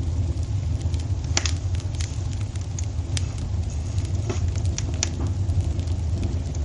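Wood fire crackling in a fireplace: a handful of irregular sharp pops over a steady low rumble.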